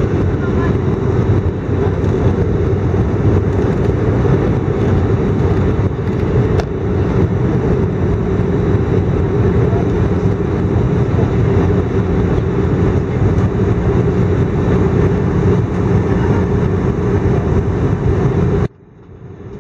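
Steady cabin noise inside an Airbus A319 airliner in flight on approach: the steady rush of the engines and airflow, with a constant low hum. Near the end the sound cuts out abruptly and then fades back in over about a second.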